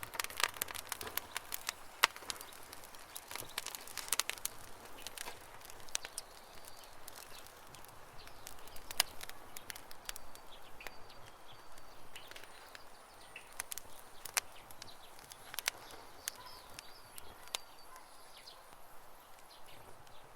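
Campfire crackling, with irregular sharp pops and snaps of burning wood, busiest near the start. Birds chirp faintly in the background in the second half.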